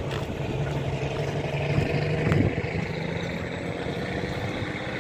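A vehicle engine running steadily under a haze of road and air noise.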